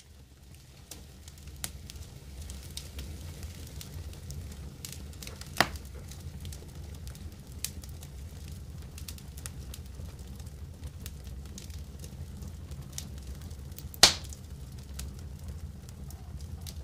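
Wood fire in a fireplace crackling, with scattered small snaps over a low steady rumble and two loud pops, about five and a half seconds in and near the end.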